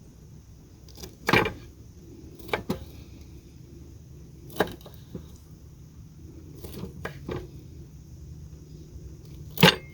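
Knife cutting pineapple chunks in half, the blade giving scattered sharp taps on the surface beneath, about eight over the stretch, the loudest near the end.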